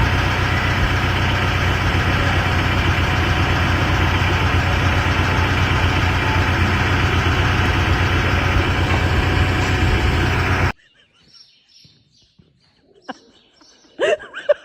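An engine running steadily and loudly, cutting off abruptly about ten seconds in. Faint chirps follow in a much quieter stretch.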